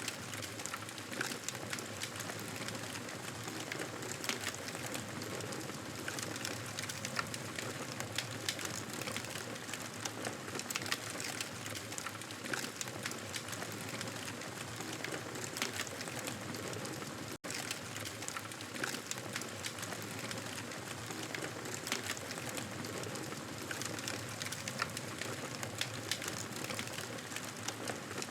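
Campfire crackling steadily, a constant hiss dotted with many small sharp pops and snaps, with an instant's break in the sound partway through.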